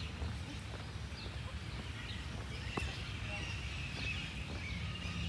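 Birds chirping and calling, high and repeated, over a steady low outdoor rumble, with a single sharp click near the middle.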